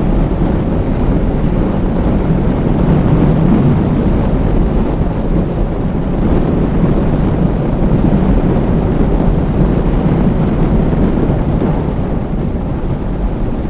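Steady wind rush over the camera microphone of a moving motorcycle at riding speed, with road and motorcycle engine noise beneath it.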